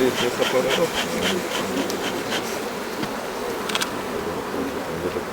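Honeybees in large numbers buzzing around the hives, a steady dense hum. For the first two seconds or so there is a quick run of light ticks, about five a second, and a single click comes near the end.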